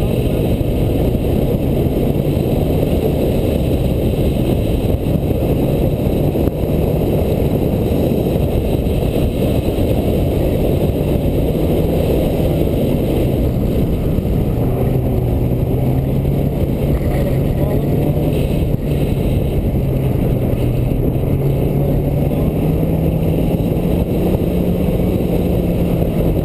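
1992 Mazda Miata's 1.6-litre four-cylinder engine pulling hard through an autocross course, its pitch rising and falling with the throttle and climbing steadily over the last dozen seconds, under heavy wind and road rush on the car-mounted microphone.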